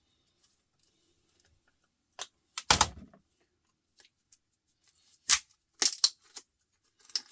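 Scattered sharp plastic clicks, snaps and knocks as a laptop's plastic casing is pried and pulled apart by hand, with one heavier knock with a dull thud near the start.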